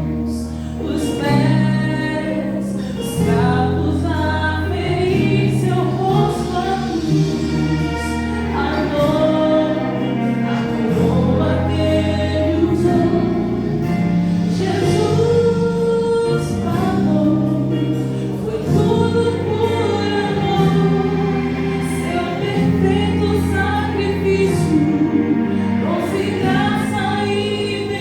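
Gospel song: a choir sings over instrumental backing, with held bass notes that change every couple of seconds.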